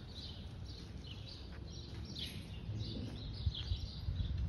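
Small birds chirping and twittering in many short, falling calls, over a steady low rumble.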